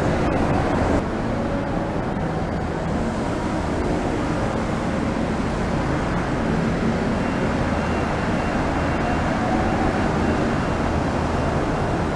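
Driverless electric Automated People Mover train running past behind glass platform screen doors: a steady rumble, with a faint high tone from about seven seconds in.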